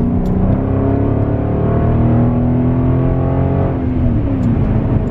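Chrysler 300's Hemi V8 on straight pipes with all mufflers removed, accelerating hard: the exhaust note climbs steadily for about three and a half seconds, then drops away as the throttle is let off.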